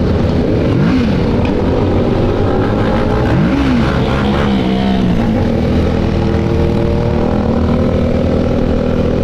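Many motorcycle engines running together in a convoy, a steady loud drone, with a nearby bike revving up and back down about a second in and again about three and a half seconds in.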